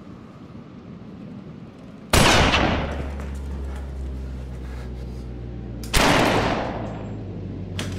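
Two gunshots, about four seconds apart, each a sudden loud crack with a trailing echo. A low steady drone sets in with the first shot and runs on beneath.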